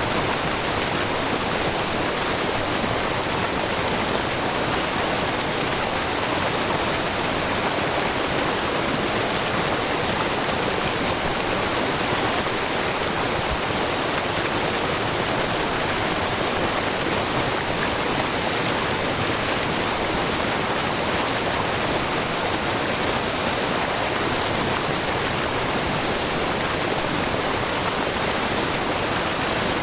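Wide, low curtain waterfall of spring water spilling over a rock face: a steady, even rush of falling water with no breaks.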